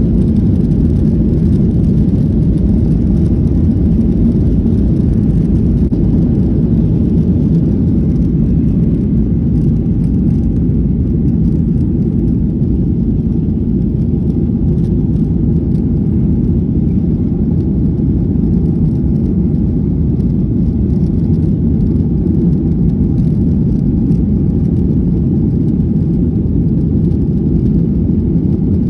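Airliner passenger-cabin noise: the steady, loud low rumble of jet engines and airflow heard from a window seat, unchanging throughout.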